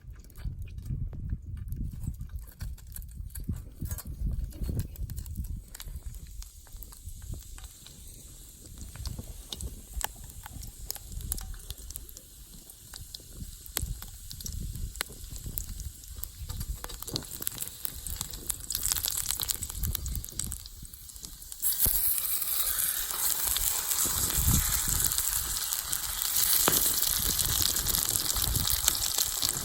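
Low rumble with scattered clicks, then about three-quarters of the way through a loud frying sizzle starts suddenly in a hot pan and keeps going.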